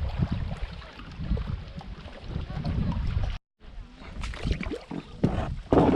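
Canoe on a lake: water and paddle sounds under an uneven low wind rumble on the microphone, with scattered knocks and splashes. The sound drops out for a moment about three and a half seconds in.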